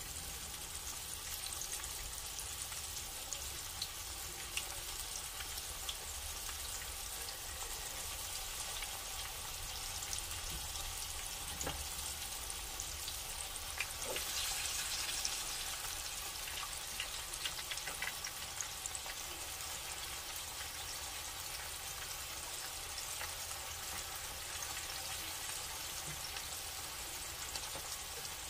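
Flour-dredged pork neck bones frying in hot oil in a skillet: a steady sizzle with scattered small pops and crackles. It grows louder for a couple of seconds about halfway through as another piece goes into the oil.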